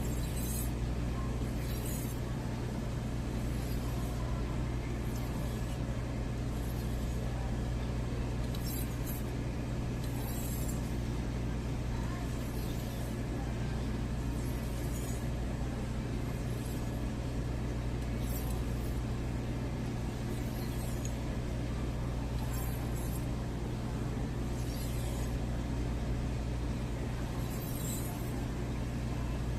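A knife's edge scraping in short, high, hissy strokes on a Shapton Glass 2000 ceramic whetstone, every second or two, over a steady low hum.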